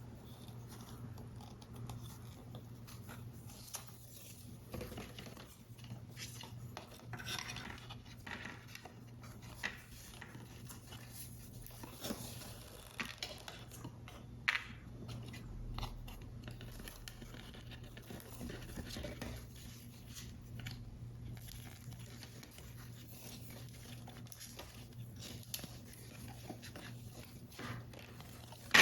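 Paper model parts being handled and assembled: soft paper rustles with scattered small taps and clicks, a few sharper ones, over a steady low hum.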